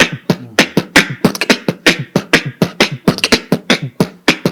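Human beatboxing: a fast, dense run of vocal kick, snare and hi-hat-like strikes making up an Indian-style beat.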